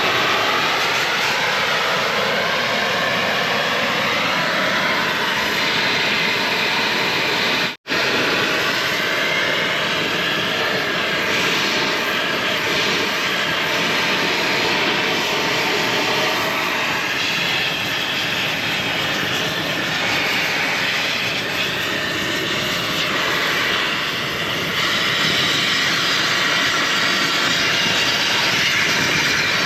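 Cutting torch flame running steadily, cutting through a crawler track chain's link and bushing. It breaks off for an instant about eight seconds in.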